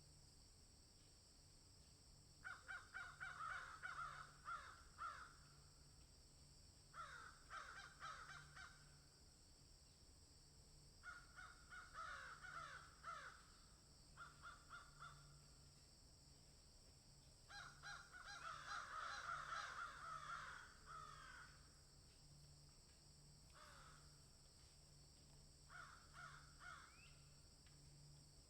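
Birds calling in repeated bursts of harsh, rapid notes, each burst lasting one to four seconds with short gaps between, over a steady high hiss.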